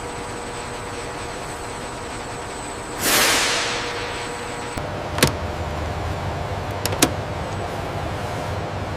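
Factory machinery humming steadily, with a loud burst of hiss about three seconds in that fades away over a second or so. Then a lower machine hum starts, broken by a sharp click and, a couple of seconds later, a quick double click.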